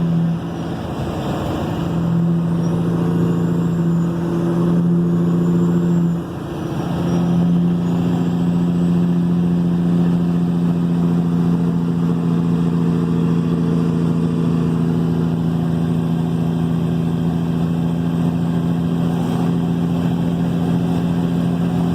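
Caterpillar 3406E 550 hp diesel in a Kenworth W900 running through 8-inch straight-pipe duals, pulling at a steady engine speed. Its sound drops out briefly twice, about a second in and about six seconds in, then holds steady.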